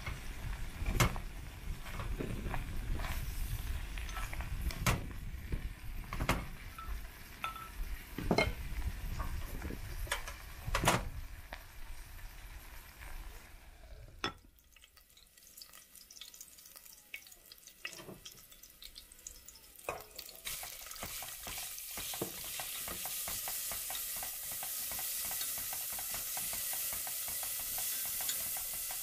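Chopsticks stirring and knocking against a clay pot of meat and greens, sharp clicks over a low rumble. Then, from about halfway, minced meat frying in a stainless steel pot while a wooden spatula stirs it, the sizzle growing to a steady hiss.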